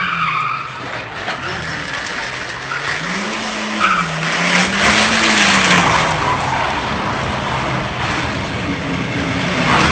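Car engine revving up and down, with tyres skidding and squealing on the road surface, loudest about four to six seconds in.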